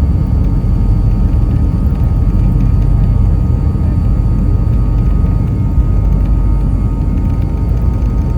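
The four Lycoming LF507 turbofans of a BAe Avro RJ100 running steadily: a loud, deep rumble with steady high whining tones over it.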